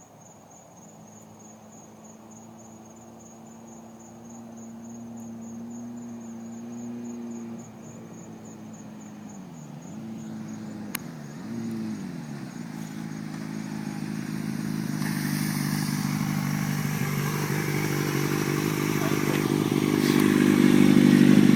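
Kawasaki ZX-6R 636 inline-four sport bike with a Jardine aftermarket exhaust, heard at a distance. It holds steady revs, dips and rises in pitch a few times partway through, then grows steadily louder as it approaches. Crickets chirp in the first half.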